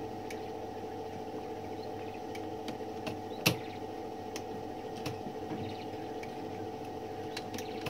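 A few sparse, light mechanical clicks from the 1912 Mercedes typewriter's mechanism as it is worked by hand, with one louder click about three and a half seconds in. A steady hum runs underneath.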